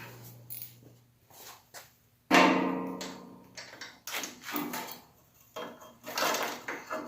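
Irregular knocks and clanks of parts and tools being handled while a part is fitted. The loudest clank comes about two seconds in and has a ringing tail.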